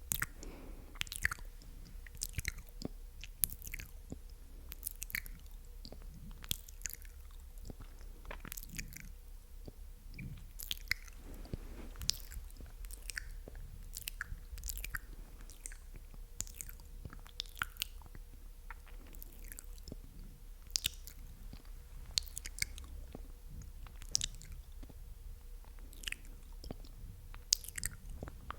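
Close-miked ASMR mouth sounds: wet, sticky clicks and smacks of lips and tongue, coming irregularly several times a second.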